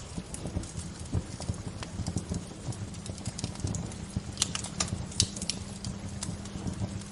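Wood fire crackling: irregular sharp pops and snaps, a few louder ones past the middle, over a steady low rush.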